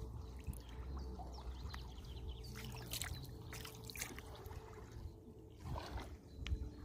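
Water splashing and trickling, with scattered small splashes over a steady low rumble.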